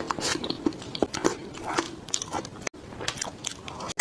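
Close-miked eating of chocolate cheesecake: soft, sticky chewing with frequent wet lip smacks and mouth clicks, several per second, cut off by two brief silences where clips are joined.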